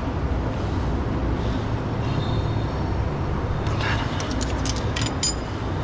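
Steady low rumble of shop background, with a few light metallic clicks and clinks from hand tools about four to five seconds in, as a valve adjuster on a Caterpillar C11 diesel engine is set with a socket and Allen wrench.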